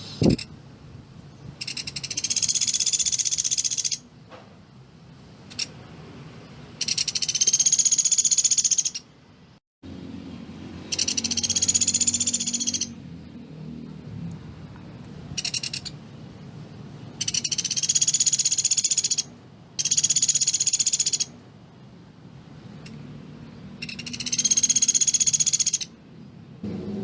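Pelatuk beras (velvet-fronted nuthatch) singing its rapid, tightly packed trills: about six high bursts of roughly two seconds each, separated by a few seconds, with short single chirps in between.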